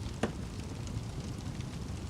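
Fireplace fire crackling over a steady low rumble, with one sharp pop about a quarter of a second in.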